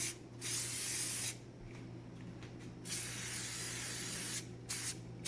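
Aerosol cooking-oil spray hissing into a pan in several separate bursts, the longest about a second and a half near the middle, with two brief puffs near the end.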